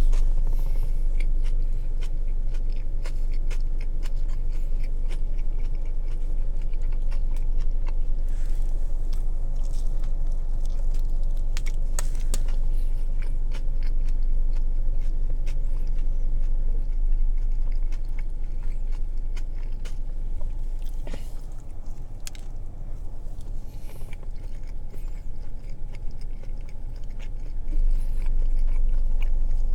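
Close-up chewing and biting of a sweet onion teriyaki chicken sub sandwich, with many small wet mouth clicks, over a steady low hum.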